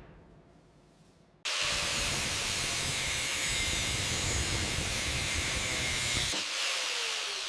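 A loud, steady hissing jet starts suddenly about a second and a half in. A low rumble beneath it cuts out near the end, leaving a thinner hiss.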